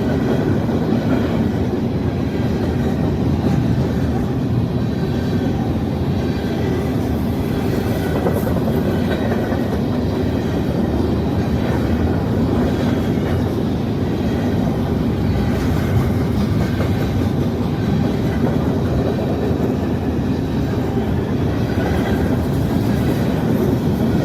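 Long freight train rolling past at close range: a steady rumble and clatter of the cars' wheels on the rails.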